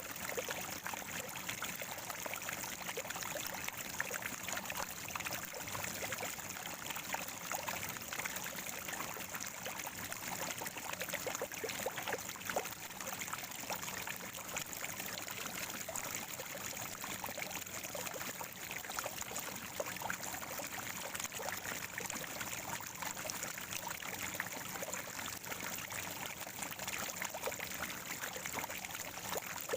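Water from a natural spring gurgling and trickling steadily, with a constant patter of small splashes.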